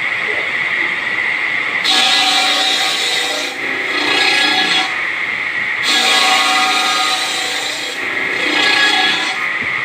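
Bead-making machine running with a steady high whine, with a louder rasping, ringing cut coming in about every two seconds, four times, each lasting a second or more.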